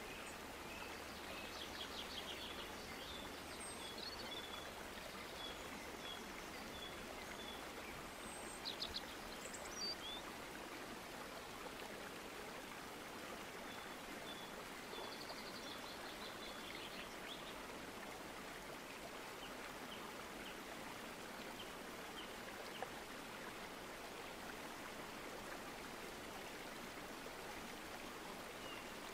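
An even background hiss with small birds chirping: several runs of short, repeated high notes, the loudest pair about nine to ten seconds in.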